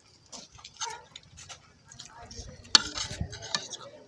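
Spoon clinking and scraping against a dish while eating, in short irregular clicks, with one sharp clink about three seconds in.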